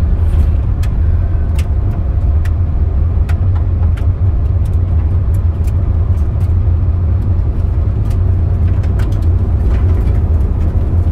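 Car driving, heard from inside the cabin: a steady low road and engine rumble, with scattered light ticks.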